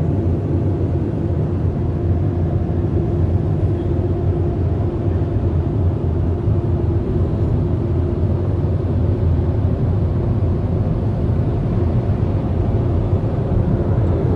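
Automatic car wash blower dryers running over the vehicle, a steady low rumble of rushing air heard from inside the van. The dryer is blowing weakly, not clearing the water or shaking the car, by the owner's account.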